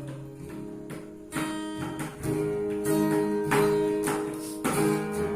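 Acoustic guitar strumming chords, a stroke about once a second with the chords ringing between, in a short instrumental gap without singing.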